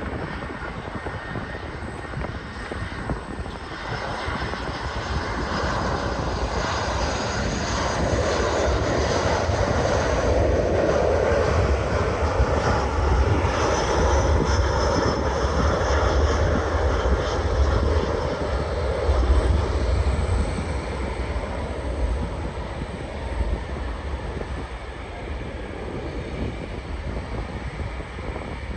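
Jet airliner passing on its landing approach: the engines' rumble with a high whine swells over several seconds, is loudest around the middle, then fades away.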